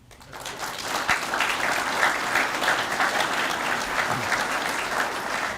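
Audience applauding: many people clapping together, swelling over the first second and tapering off near the end.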